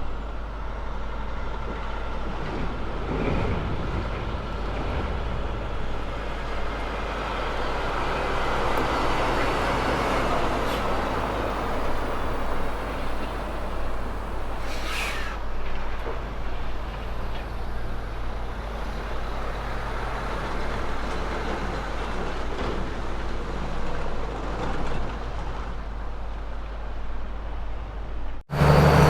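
A Kenworth truck's diesel engine running with tyre and road noise that swells toward the middle, as on a pass-by. A brief hiss comes about halfway through, and the sound cuts off abruptly near the end.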